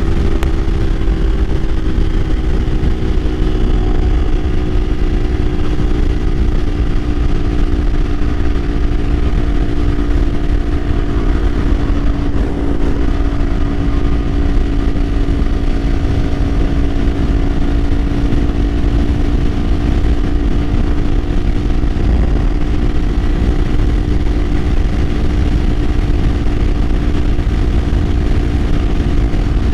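2024 Kawasaki Ninja 500's parallel-twin engine running at a steady cruise, its note easing slightly lower over the stretch, with heavy wind rumble on the microphone.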